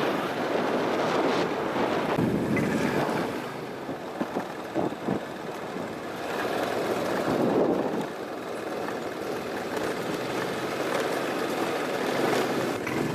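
Wind rushing and buffeting across the microphone over the running noise of a moving vehicle. It swells and eases every few seconds, with a few brief knocks about five seconds in.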